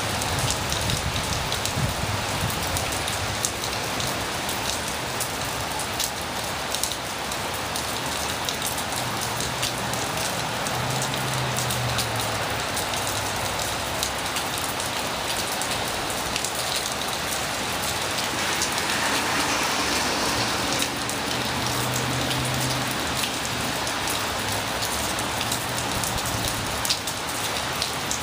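Heavy rain pouring down steadily, a dense hiss of rain hitting surfaces, with scattered drop ticks and a brief swell in intensity about two-thirds of the way through.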